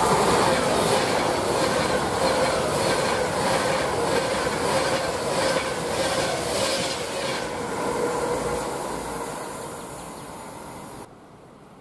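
Avanti West Coast Class 390 Pendolino electric train passing alongside the platform: a loud, steady rush of wheel and rail noise with a low hum and regular clicks as the wheelsets go by. It fades as the rear of the train passes and cuts off abruptly near the end.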